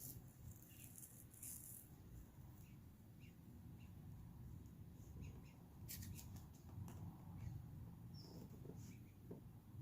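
Near silence: a faint low hum with a few faint, scattered clicks and short chirps.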